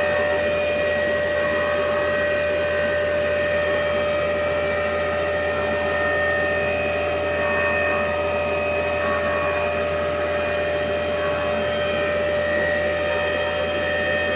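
CNC vertical machining centre running, a steady mechanical noise with a constant whine of several held tones.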